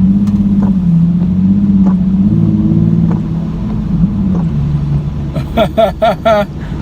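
Nissan 370Z's 3.7-litre V6 with the muffler deleted, heard from inside the cabin while driving: a loud, steady exhaust note that climbs a little, then drops about four seconds in as the car eases off.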